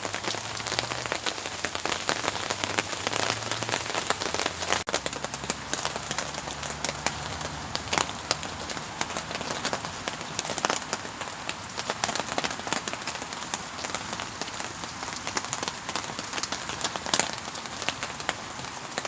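Steady heavy rain falling, with many individual drops striking close by. Through the first five seconds a faint low hum sits under the rain and stops abruptly.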